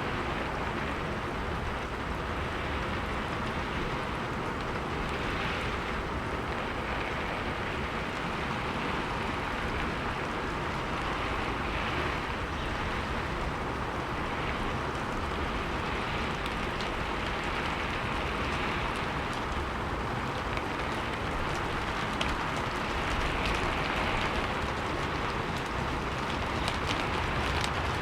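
Steady heavy rainfall, a constant hiss of rain with a low rumble underneath, swelling slightly every few seconds.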